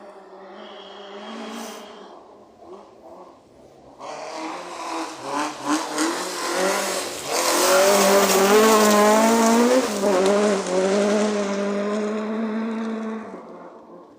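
A rally car's engine approaching at speed, passing close at full throttle with the engine note wavering, then fading away.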